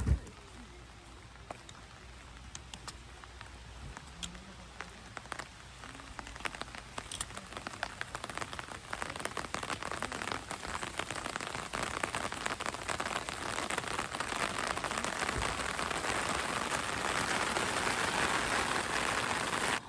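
Rain falling, heard as a dense hiss of tiny drop impacts that grows heavier and louder through the second half. A single sharp knock at the very start.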